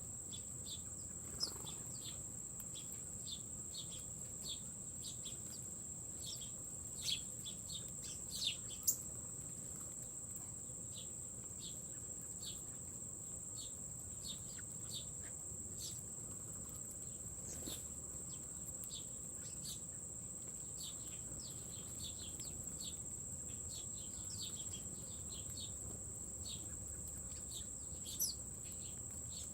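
Insects trilling in one steady high-pitched tone, with small birds giving short high chirps several times a second; a few louder chirps stand out about a second in, around seven to nine seconds in, and near the end.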